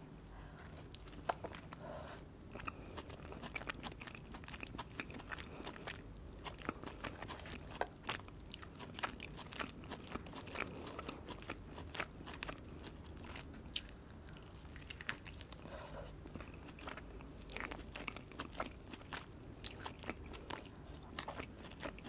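Close-miked chewing and biting of grilled chicken chop, with many short sharp clicks and mouth sounds throughout.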